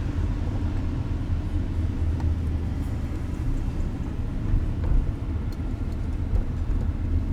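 Car driving: a steady low rumble of engine and road noise heard inside the cabin.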